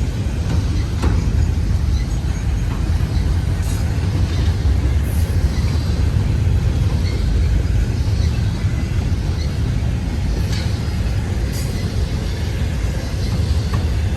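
Double-stack container freight train rolling past: a steady rumble of wheels on rail, with a few faint high squeaks.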